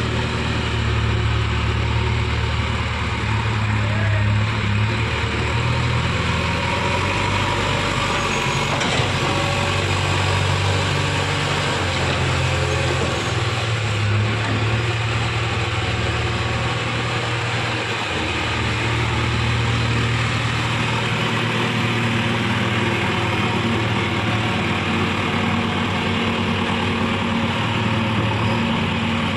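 Heavy diesel engine running steadily at low revs, a deep drone that swells and eases slightly in level.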